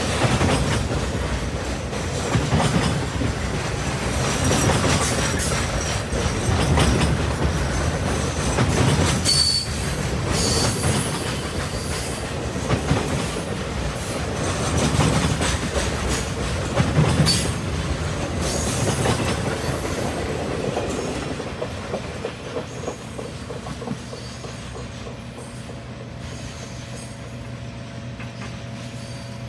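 Norfolk Southern Triple Crown RoadRailer freight train rolling past, its wheels clicking over rail joints with a couple of brief high wheel squeals. The noise fades after about twenty seconds to a steady low hum.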